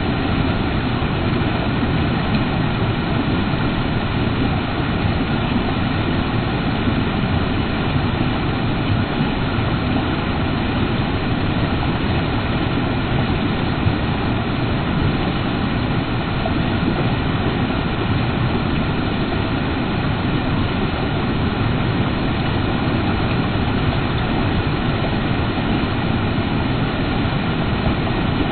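Creek water rushing, a steady, even noise with no breaks.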